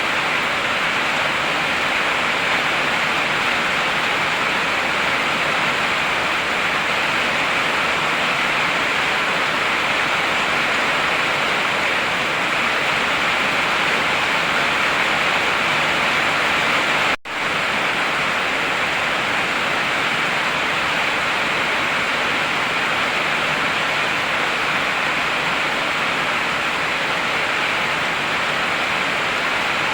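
Heavy rain falling steadily, a dense even hiss, with one momentary gap where the sound cuts out for an instant a little past halfway.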